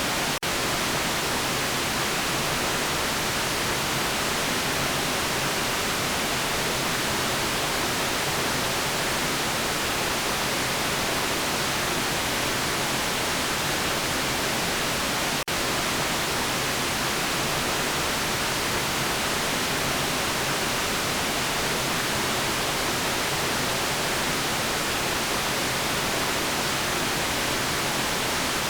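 Steady synthetic white noise, an even hiss spread across the whole range and light in the bass. It dips for a split second twice, once just after the start and once about halfway through.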